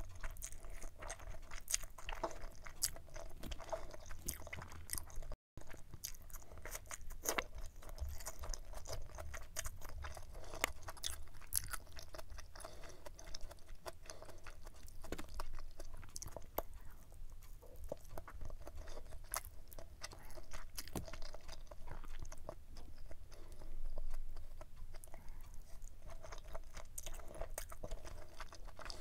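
Close-miked chewing of spicy stir-fried pork intestines with glass noodles: many small wet clicks and crunches in a steady run. The sound cuts out for an instant about five seconds in.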